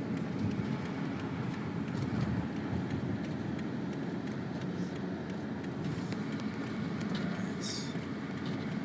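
Steady low rumble of a car's engine and tyres on snowy road, heard from inside the cabin while driving, with a few faint ticks and a short hiss near the end.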